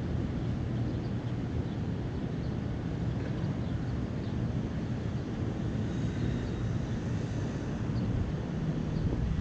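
Steady low rumble of distant city traffic, with faint short bird chirps scattered through it.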